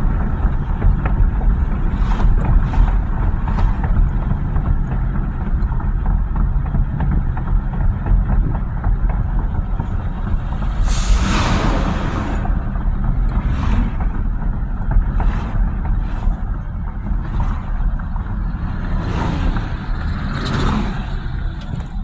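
Steady low road and engine rumble of a moving vehicle, with a string of short hissing swishes, the strongest about halfway through.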